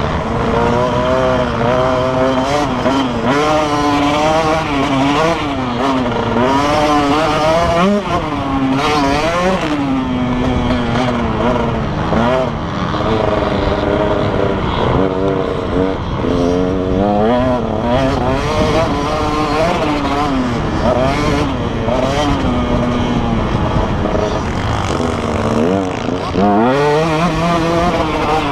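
Motocross bike engine revving hard, its pitch climbing and dropping again and again as the throttle opens and shuts and the gears change.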